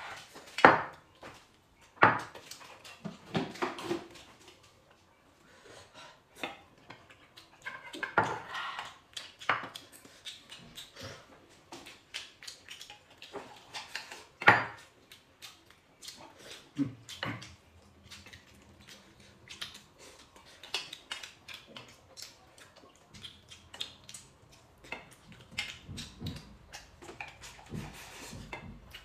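Chopsticks clicking and scraping against stainless-steel rice bowls as two people eat, with chewing and slurping mixed in. There are a few louder clinks along the way.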